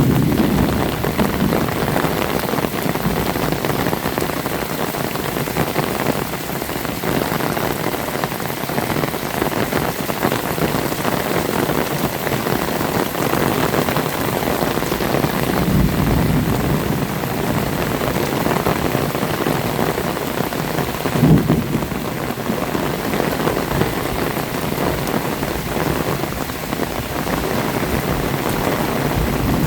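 Heavy rain falling steadily, a dense even hiss. There are brief low rumbles about halfway through and again a few seconds later.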